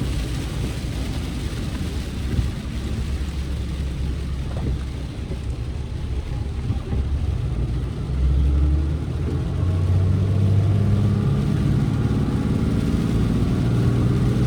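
Inside a truck cab while driving in heavy rain: steady low engine and road rumble, growing louder from about eight seconds in as the truck speeds up.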